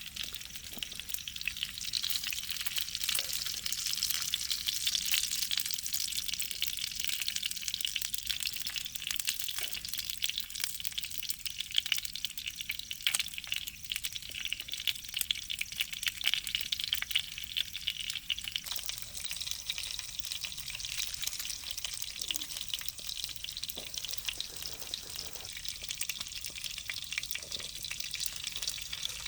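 Food frying in a pan: a steady, dense sizzle with fine crackles, easing a little about two-thirds of the way through.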